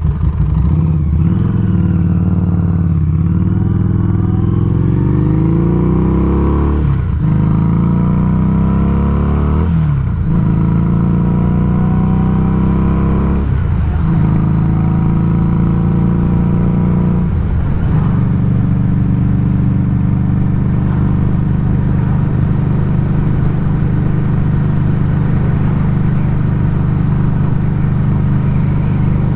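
Harley-Davidson Street 500's V-twin running through a Firebrand Loose Cannon slip-on muffler, accelerating up through the gears. The pitch climbs and drops with each of about five upshifts over the first eighteen seconds or so, then the engine settles into a steady cruise.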